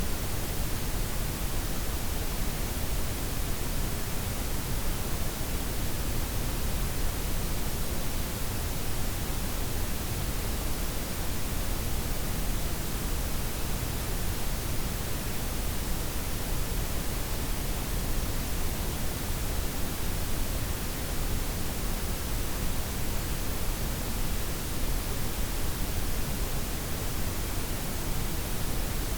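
Synthetic blended white, pink and brown noise: a steady, even hiss with a deep rumbling low end and softened highs, unchanging throughout.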